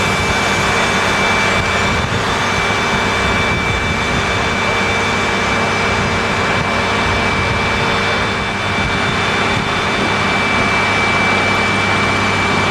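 Boeing 737-200's Pratt & Whitney JT8D jet engines running steadily: a constant high whine over a broad rush, with no spool-up or spool-down.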